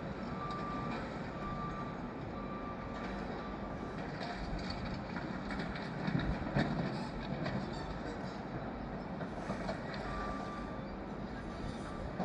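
Diesel construction machinery running steadily with metallic clanking, louder clattering a little past halfway. A machine's reversing alarm beeps at a steady pace at the start and again near the end.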